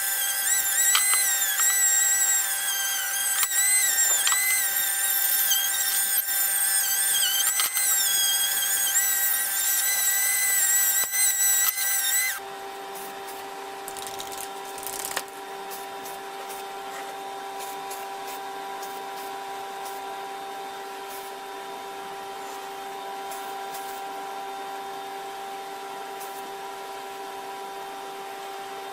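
Electric power tool motor whining at high speed, its pitch wavering as it works under changing load. About twelve seconds in it cuts abruptly to a quieter, steady motor hum.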